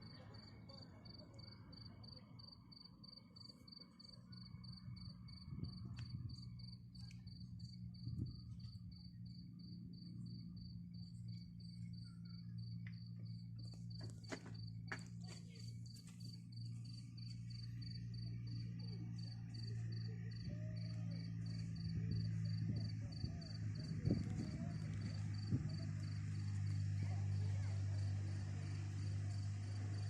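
A cricket trilling, a steady high chirp pulsing several times a second, over a low hum that grows louder toward the end, with a few sharp clicks about halfway through.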